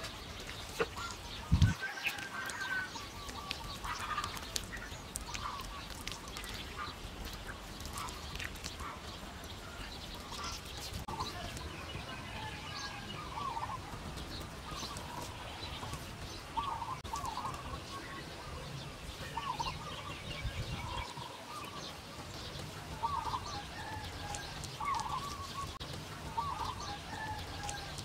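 Birds calling over and over in short, clipped calls, with light taps here and there and one thump about one and a half seconds in.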